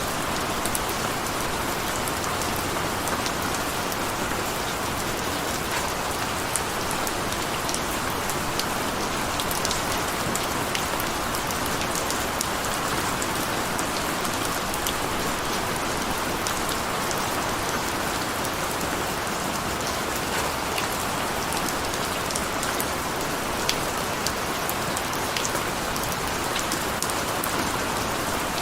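Steady rain falling, an even hiss with many small drops pattering sharply on a hard surface.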